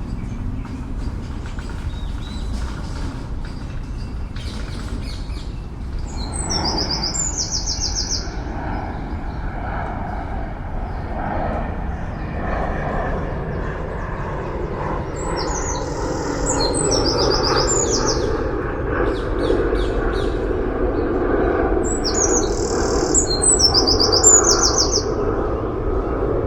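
A songbird singing three short, high, fast-trilled phrases, each about two seconds long, over a steady rumble of city traffic that swells in the second half.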